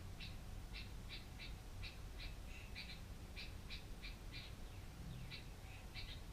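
Short bird call notes repeated irregularly, about two to three a second, over a faint low hum.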